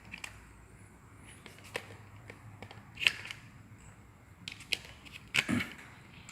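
Scattered sharp clicks and taps from small parts of a syringe-powered toy excavator being handled while its pins are pulled out. The loudest are a click about three seconds in and a knock about a second before the end.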